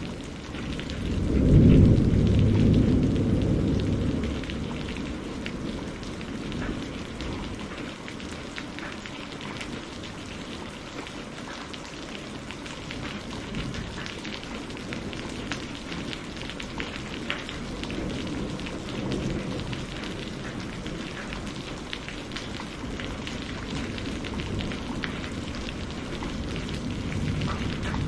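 Steady rain falling, with a loud roll of thunder about a second in that fades away over the next few seconds, and softer rumbles of thunder later on.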